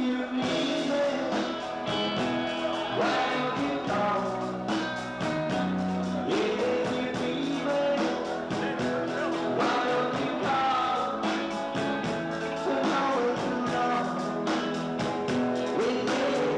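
Rock and roll band music with a steady drum beat.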